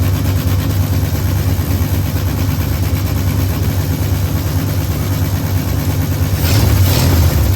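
1973 Ford F100's engine running at idle, getting briefly louder near the end. It has an unhappy sound that the owner suspects comes from the distributor rotor hitting the condenser inside the cap.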